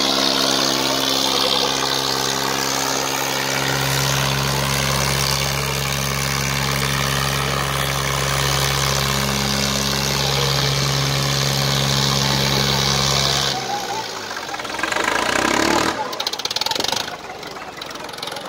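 Swaraj 855 tractor diesel engine running at a steady speed; about four seconds in its note deepens and grows heavier, as under load, then about 13 seconds in it drops away abruptly, leaving uneven, quieter noise.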